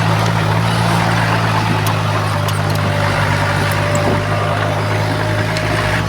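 Diesel engine of heavy earthmoving equipment running steadily at a constant speed, with scattered light clicks over it.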